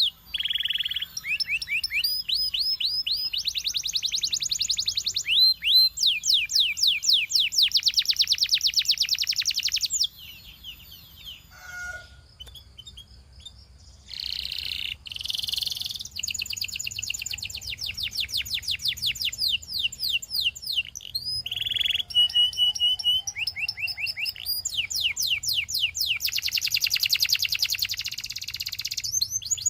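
Canary singing in long trills of rapidly repeated high notes, several seconds each, with a quieter break from about ten to fourteen seconds in.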